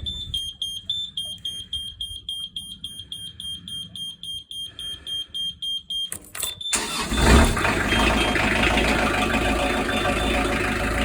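Narrowboat engine being started: the engine panel's warning buzzer sounds a steady high tone while the starter cranks with a rhythmic chug, about three beats a second. After about six and a half seconds the buzzer cuts out and the engine catches, then runs steadily.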